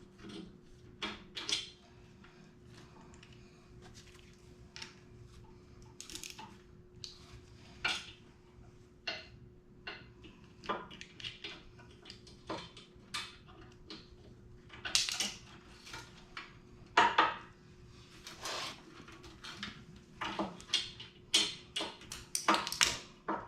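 Hand tools and metal brake parts clinking and clanking at irregular intervals as a mini bike's brake rotor and caliper are fitted and bolted, over a faint steady hum. The loudest knocks come about two-thirds of the way through.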